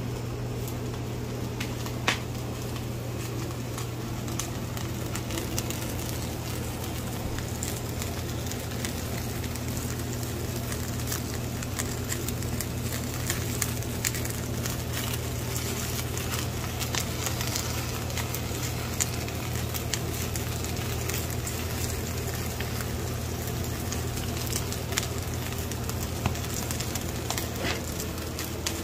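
Oak firewood burning in a firebox under a cast-iron cauldron, crackling with scattered sharp pops over a steady low hum.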